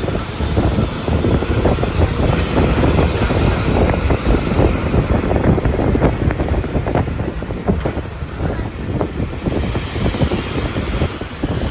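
Wind buffeting the microphone: a loud, steady low rumble with constant crackling.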